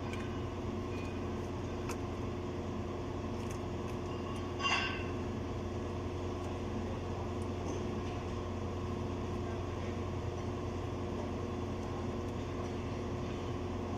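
Steady mechanical hum of a running machine, with one short ringing metal clink, typical of a tool or part knocked on the loader's steel, nearly five seconds in.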